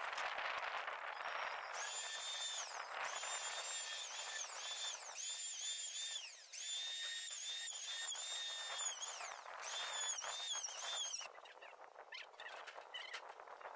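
Handheld electric sanding tool working an old oak log. Its high motor whine starts and stops in short bursts of about a second, each ending in a falling whine as the motor winds down, over the rasp of abrasive on wood. It stops about eleven seconds in.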